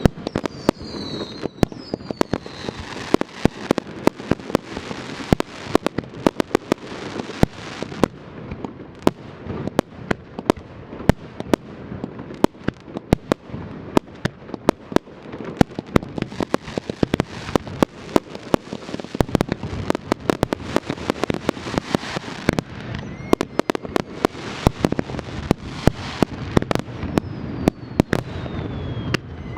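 Aerial fireworks display: a dense barrage of sharp cracking bursts, several a second, over a low rumble. A few falling whistles sound at the start and again near the end.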